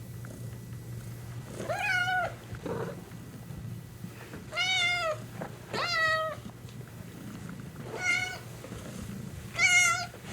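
Domestic cat meowing, five separate meows over the stretch, each about half a second long and rising then falling in pitch.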